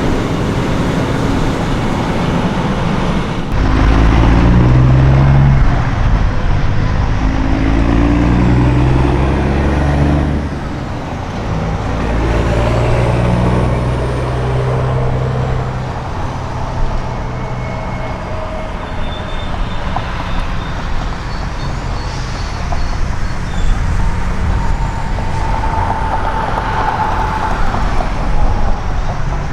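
Diesel semi truck engine pulling away, its note rising as it works up through the gears. After a short dip about ten seconds in, it climbs again, then gives way to a steady rush of road traffic.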